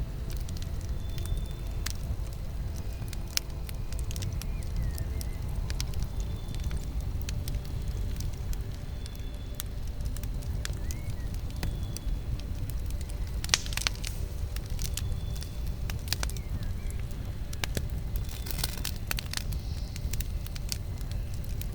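Campfire burning: sharp crackles and pops scattered over a steady low rumble, with brief flurries of louder crackling about halfway through and again near the end.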